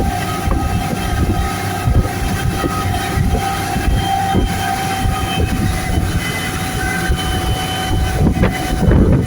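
Motorboat engine running steadily at speed, with wind buffeting the microphone; the rumble grows louder and rougher near the end.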